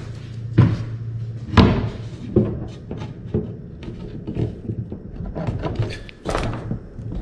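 Pieces being moved around and set in place in a wooden kayak, giving about five separate knocks and bumps with lighter clatter between, over a low steady hum.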